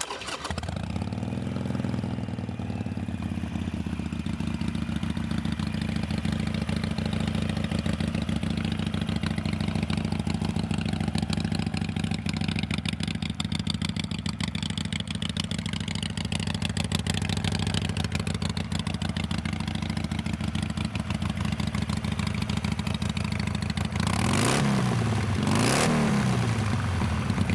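2016 Harley-Davidson Sportster 883 Iron's 883 cc fuel-injected V-twin, fitted with an aftermarket slip-on muffler, starting up and then idling steadily. Near the end the throttle is blipped twice in quick succession, each rev rising and falling back to idle.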